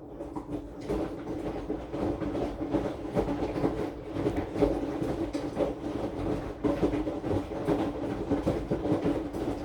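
Aqua AQW-DX12M drum washing machine running, its drum turning with a steady motor hum and frequent knocks and rattles, picked up through the machine's top by a phone lying on it. The sound picks up from a lull right at the start.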